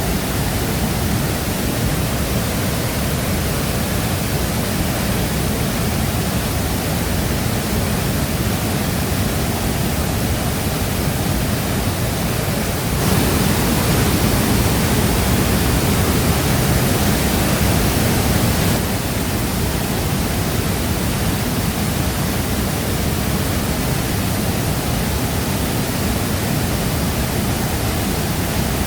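Waterfall pouring steadily, a dense rush of falling water, growing a little louder and brighter for about six seconds midway.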